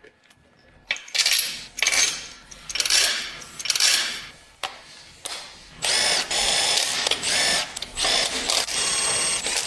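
Hand tools clattering against metal parts, then a power tool running in several short spurts, its high whine bending in pitch as it starts and stops each time.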